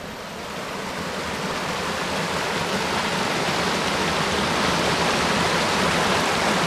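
Creek water rushing and splashing, a steady hiss that grows louder over the first few seconds and then holds.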